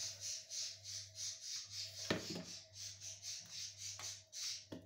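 Pet birds calling over and over in a quick, even series of short high chirps, about three or four a second. Two knocks, about two seconds in and near the end, come from the electric Turkish coffee pot being handled and set back on its base.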